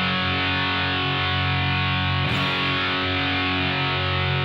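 Distorted electric guitar holding a G power chord, struck again about two seconds in and left to ring.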